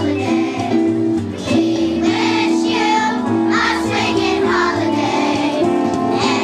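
Children's choir singing a song together over instrumental accompaniment with steady bass notes.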